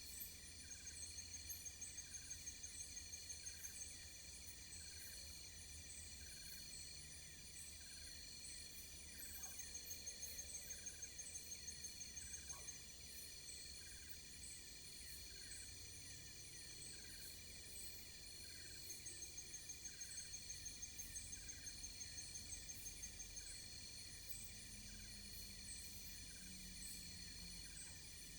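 Insect chorus: many crickets and other insects shrilling steadily, with one insect's fast trill coming in bursts of about three seconds, three times.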